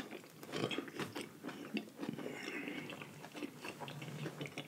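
Close-miked chewing of a mouthful of seafood boil: wet, sticky mouth sounds with many small clicks and crackles.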